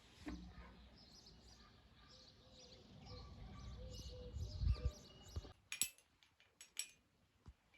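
Faint small-bird chirping, followed near the end by a few sharp clicks and knocks.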